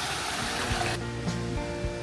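Steady rushing of fountain water, cut off abruptly about a second in by background music with a steady beat and bass line.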